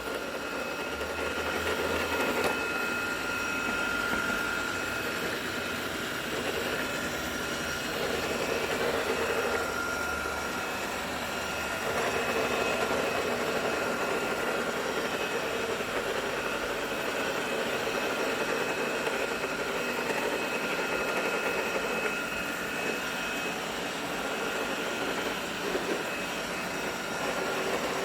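A running machine with a steady high-pitched whine over a rough noisy hum. The owner regards the noise as abnormal.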